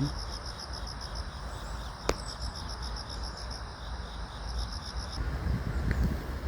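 Insects chirping in a steady, evenly pulsing rhythm over a low rumbling background, with one sharp click about two seconds in. The chirping stops about five seconds in, and wind starts buffeting the microphone.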